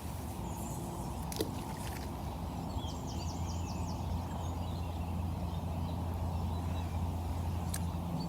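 Outdoor background of an even low noise with a steady low hum, like a distant engine, and a short quick run of bird chirps about three seconds in.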